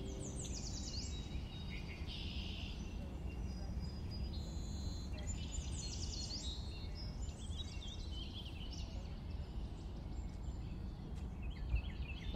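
Songbirds chirping and trilling, with quick high falling notes in short runs about half a second in and again around six seconds, over a steady low outdoor rumble.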